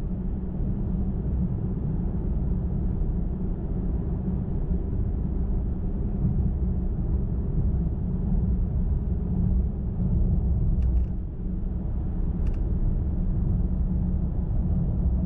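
Car driving at highway speed: a steady low rumble of tyres on the road and the engine, with two faint clicks about two-thirds of the way through.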